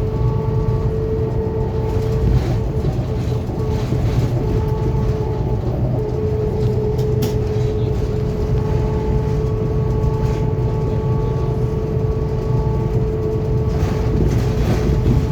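Cabin ride noise of a 2021 Scania K280UB city bus under way: a steady low engine and road rumble with a steady whine over it that drops out about three seconds in and returns about three seconds later. A few light rattles and clicks come through.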